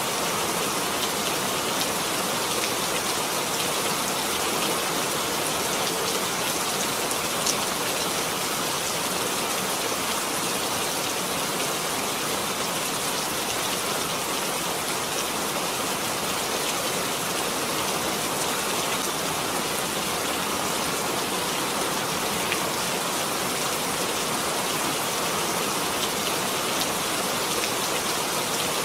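Steady rainfall, with drops pattering on surfaces as an even hiss and a few sharper drop ticks.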